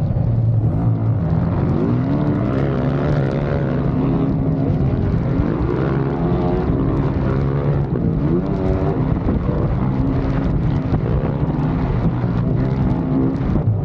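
Dirt bike engine running hard, its pitch rising and falling again and again as the throttle is worked.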